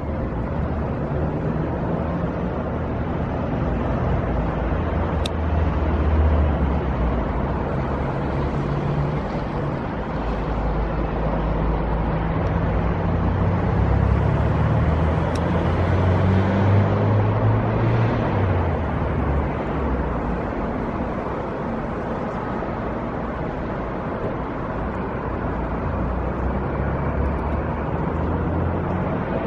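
Diesel engines of road-works machinery running continuously, a low drone whose pitch shifts up and down as the machines work. Two brief sharp clicks are heard, one about five seconds in and one around the middle.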